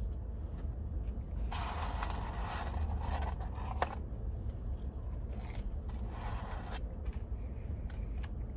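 Close-up eating sounds: crunching and rustling as food is chewed and handled, in two stretches about a second and a half in and around six seconds in, with a sharp click near four seconds. A steady low hum lies underneath.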